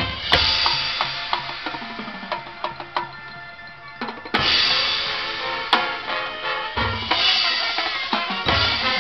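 Marching band playing, with drumline snare and bass drums prominent over the winds and brass. The music thins out and drops quieter near the middle, then the full band comes back in loudly about four and a half seconds in.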